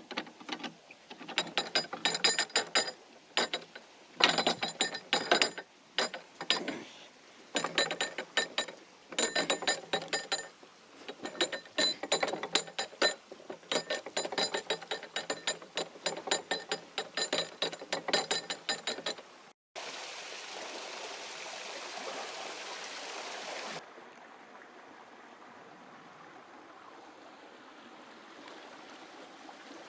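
Cast-iron lock paddle gear being wound up with a windlass, its ratchet pawl clicking rapidly with a metallic ring for about twenty seconds, in short runs. Then, after a sudden cut, water rushes steadily as the lock drains, loud at first and fainter for the last few seconds.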